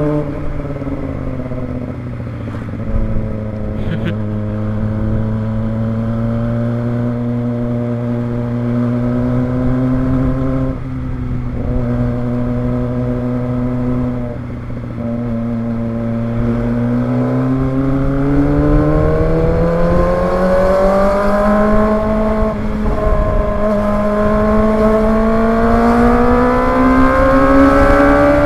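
Kawasaki ZX-25R's 250 cc inline-four engine running at a steady cruising speed, then rising steadily in pitch through the second half as the bike accelerates.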